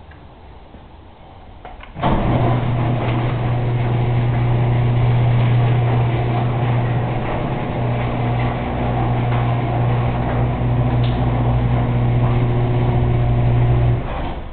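Garage door opener motor starting about two seconds in and running with a steady loud hum as it lowers the door, then stopping abruptly near the end.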